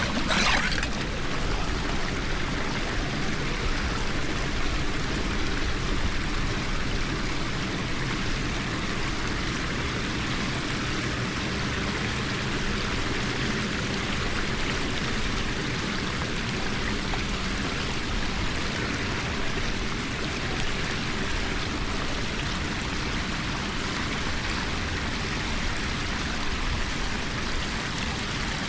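Floodwater rushing steadily down a cleared storm drain.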